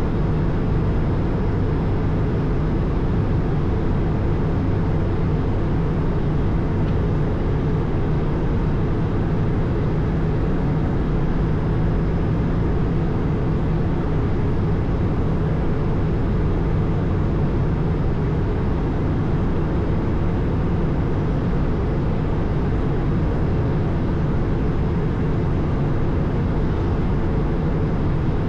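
Steady drone inside an Airbus A220 in flight: its Pratt & Whitney PW1500G geared turbofan engines and the rush of airflow, a low, even hum that holds constant with no changes.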